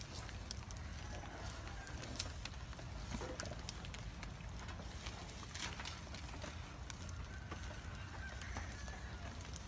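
Light rain outdoors: scattered drips and ticks over a steady low rumble, with a couple of faint calls in the background.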